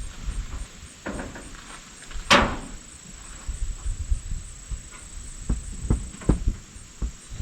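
Scattered thumps and knocks of hands-on work, with one sharp, loud bang about two seconds in and a run of dull thuds near the end.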